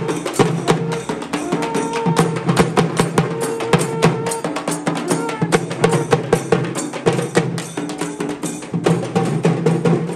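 Percussion music: many drums struck in rapid, dense strokes, with steady held tones underneath.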